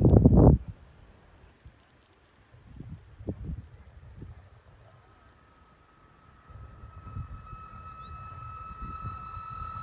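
Crickets trilling steadily, while a WAP-1 electric locomotive and its express train approach from far off: from about six seconds in, a faint steady tone and low rumble slowly grow louder. A loud buffet of wind on the microphone cuts off about half a second in.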